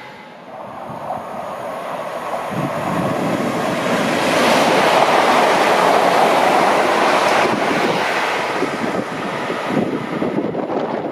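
Train passing through at speed: a rushing wheel and air noise that swells to a peak about five seconds in, then fades.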